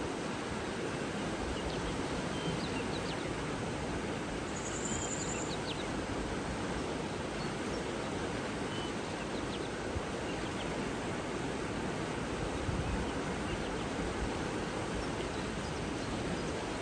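Steady rushing outdoor nature ambience with a few faint, high bird chirps and one short high trill about five seconds in.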